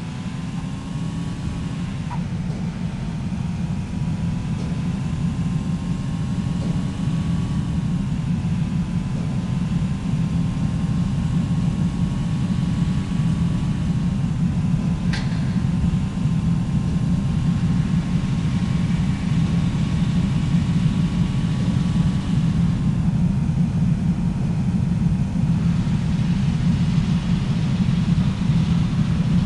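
Steady low rumble of a moving vehicle, with a faint whine that drifts slowly in pitch and a single click about halfway through.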